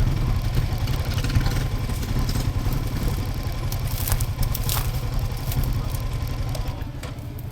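ATV engine running steadily at a low idle, with a few brief clicks about four to five seconds in.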